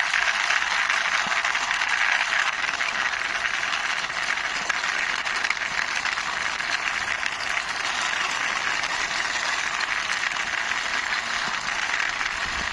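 Plastic toy jeep pushed by hand, its wheels rolling and rattling on the surface in a steady, even run.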